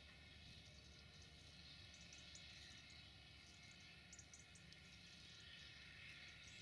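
Near silence: a faint low rumble of a distant diesel-hauled weedkiller train passing, with a few faint high chirps.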